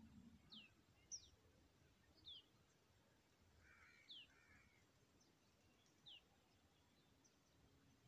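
Faint, short, high bird chirps, each falling quickly in pitch, about five of them scattered a second or two apart over a near-silent background.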